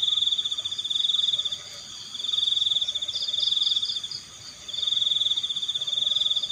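A cricket trilling at one high pitch in repeated bouts about two seconds long with short breaks between them, three bouts in all. A fainter second insect pulses higher, about halfway through.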